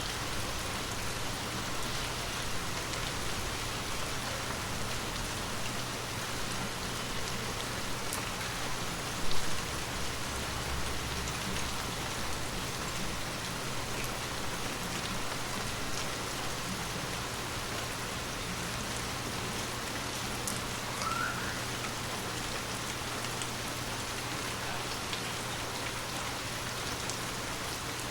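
Water droplets tapping on glass: a steady patter with scattered individual drop ticks, and one brief louder thump about nine seconds in.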